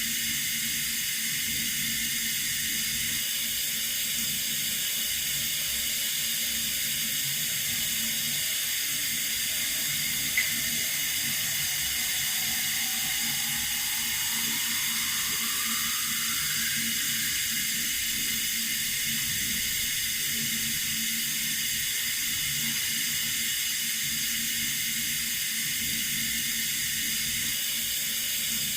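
Running water, a steady even hiss. A single brief click comes about ten seconds in, and a faint rising tone sweeps up partway through.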